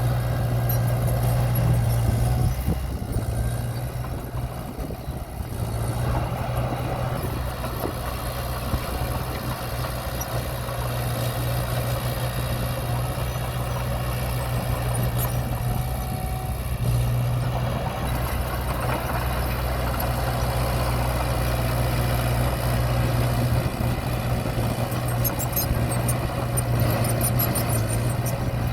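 Diesel engine of heavy earth-moving equipment running steadily, easing off briefly a few seconds in. Near the end there is a rapid light clicking.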